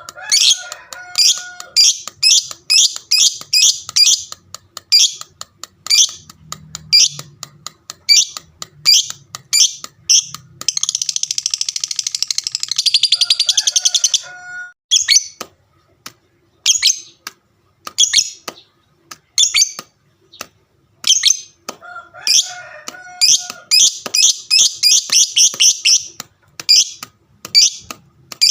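Fighter lovebird's long 'ngekek' chatter: sharp shrill chirps a few times a second, breaking twice into a fast, unbroken rattle of calls lasting about three seconds each, near the middle and again near the end.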